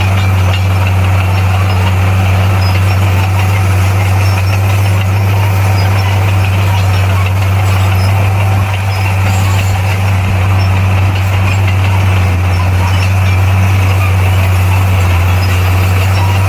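Heavy diesel engine of earthmoving equipment running steadily with a loud, even low drone and no change in speed.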